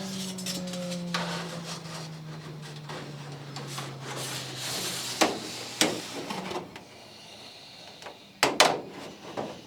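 A motor's hum slowly falling in pitch as it winds down, then several sharp clicks and knocks of tools and sheet metal being handled, the loudest a quick pair near the end.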